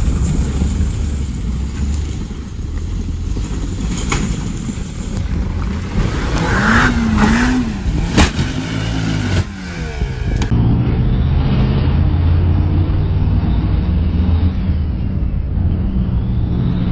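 Car engine and road noise, with a sharp knock about eight seconds in. The sound changes abruptly about ten seconds in.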